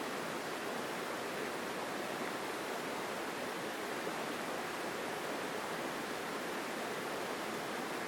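Mountain stream rushing over rocks in a forest: a strong, steady flow of water with no changes.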